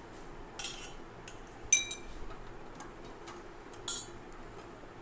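Cutlery and dishes clinking: a few separate sharp metallic clinks, the loudest about two seconds in with a brief ringing tone, as food is served or dishes are handled.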